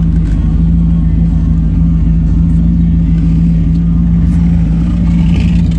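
1970 Ford Mustang Mach 1's V8 idling steadily as the car creeps along at walking pace, heard from inside the cabin as a deep, even rumble.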